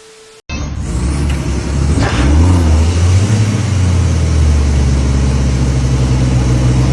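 A motor vehicle's engine running loud and close, its note rising about two seconds in and then holding steady. It is preceded by a brief faint steady tone.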